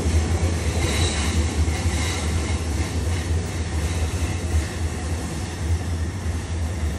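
Commuter train running, heard from inside the carriage: a steady low rumble with hiss from the wheels and track.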